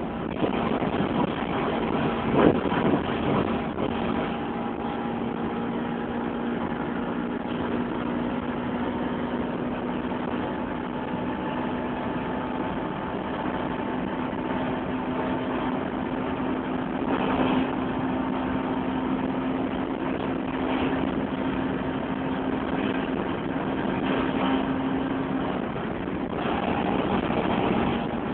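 Toyota Celica T-Sport's 1.8-litre VVTL-i four-cylinder, heard from inside the cabin at sustained very high speed. A steady engine drone rises slowly in pitch under constant wind and road noise, with one knock about two and a half seconds in. The engine note drops away near the end.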